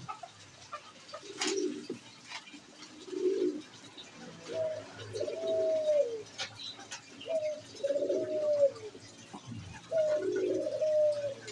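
Pigeons cooing: a couple of short low coos, then from about four seconds in a repeated cooing phrase that rises and falls, three times.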